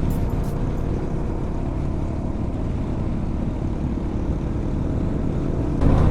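Adventure motorcycle engine running while riding a dirt track, with wind noise on the mic. The sound is steady and gets louder just before the end.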